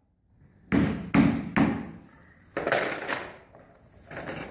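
Hammer striking the Gator in two short runs of knocks: three blows about half a second apart, then a few more a second later.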